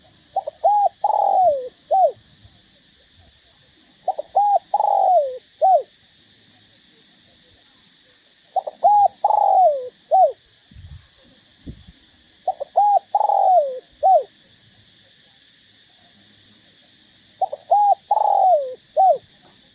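Spotted dove cooing: five repeated phrases about four seconds apart. Each phrase is a couple of short coos, a long falling coo, then a short final note. This is the excited coo used as a lure call to provoke spotted doves.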